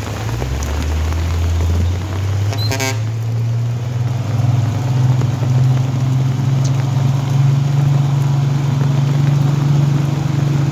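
Heavy vehicle engine running loud and steady, its pitch climbing slowly as it pulls; a vehicle horn gives one short toot about three seconds in.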